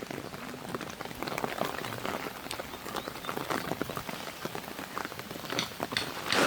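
Rain falling on a surface: dense, irregular taps of drops over a steady hiss, with a few louder knocks near the end.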